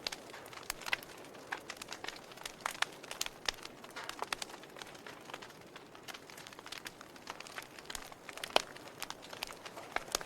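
Burning wood fire crackling: irregular sharp pops and snaps over a soft hiss, with one louder pop about eight and a half seconds in.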